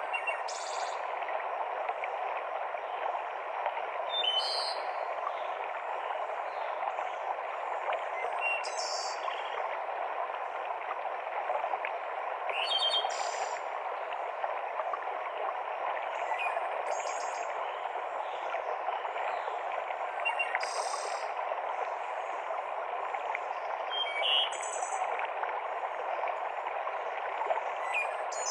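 Mountain stream cascading through a forest, a steady rush of water. Short, high bird calls come in about every four seconds above it.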